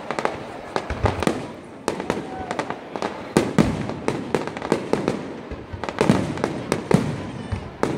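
Aerial fireworks shells bursting: a dense, irregular run of sharp bangs and crackles, several a second, the loudest about three and a half and seven seconds in.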